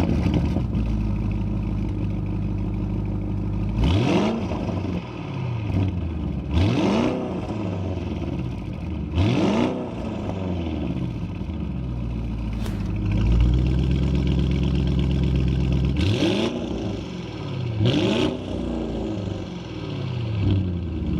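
Audi RS Q8's twin-turbo 4.0 L V8 idling through an aftermarket Fi Exhaust valvetronic catback, blipped to a short rev and back to idle several times. The exhaust valves are closed for the first two-thirds and open from about two-thirds in, for the louder valves-open sound.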